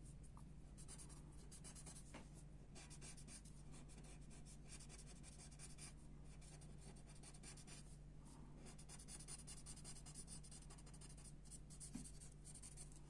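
Graphite pencil scratching on paper in runs of quick sketching strokes, with short pauses between runs. Faint, over a low steady hum.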